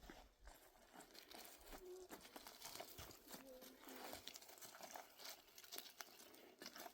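Faint, irregular crackling and rustling: many small clicks and crunches, like dry material being handled or stepped on.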